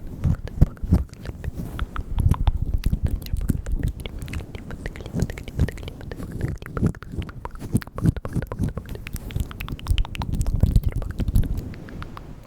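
Close-miked ASMR mouth sounds: a rapid, continuous run of wet mouth clicks and smacks.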